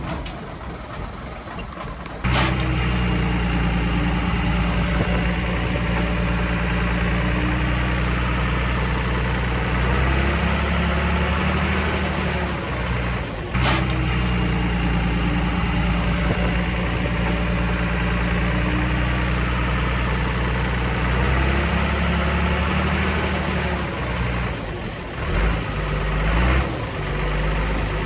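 Heavy diesel engine of earthmoving machinery running, its note shifting several times, with abrupt breaks about two seconds in and near the middle.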